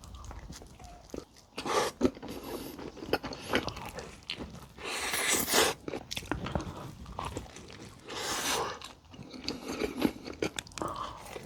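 Close-miked eating of pepperoni cheese pizza: bites and chewing with crunching, and a longer crunch about five seconds in and again around eight seconds.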